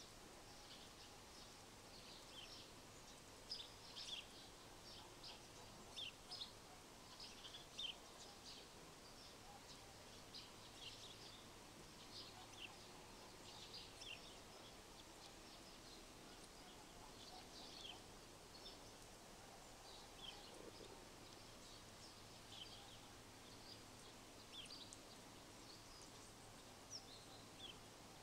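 Faint chirping of small birds: many short, high calls scattered throughout, some in quick runs, over a low steady hiss of outdoor background noise.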